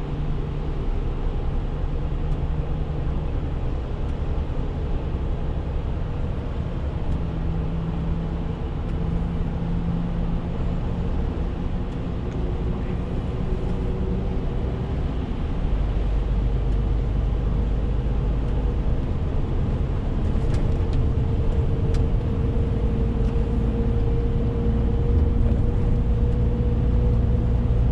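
Renault T520 truck's six-cylinder diesel engine running on the road with steady road noise. The engine grows louder a little past halfway, and a whine climbs slowly in pitch toward the end.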